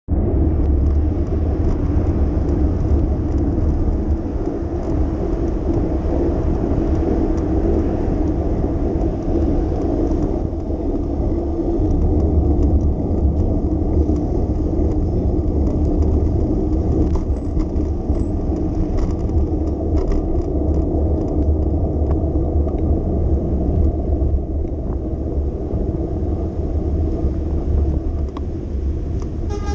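Steady low rumble of a bicycle ride through city streets, with road and traffic noise around the rider.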